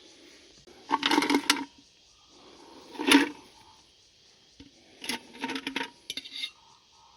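Hard tableware clinking and clattering as it is handled, in three short bursts: about a second in, at about three seconds, and from five seconds on, each with a brief metallic ring.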